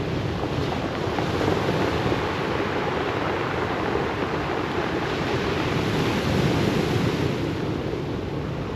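Surf on a pebble beach: a steady rushing wash of waves, swelling a little about six seconds in.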